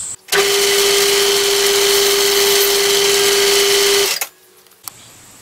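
Metal lathe turning the Stuart No. 8 cylinder casting in a four-jaw chuck while the tool breaks the edge of the bore, a steady whine over loud hissing noise. It cuts off about four seconds in.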